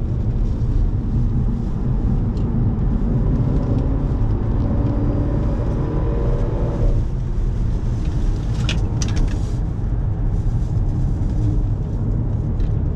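Audi car engine at full throttle, heard from inside the cabin over heavy road rumble, its note climbing steadily for about seven seconds and then dropping away as the car comes off the throttle. There are a few brief high crackles about two seconds later.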